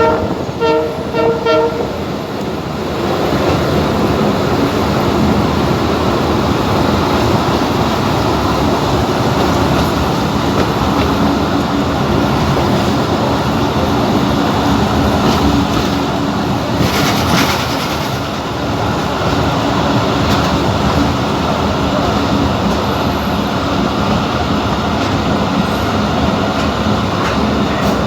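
A passenger train's horn sounds two short blasts at the start. It gives way to the steady running rumble of the moving train on the rails, with a brief hiss about two-thirds of the way through.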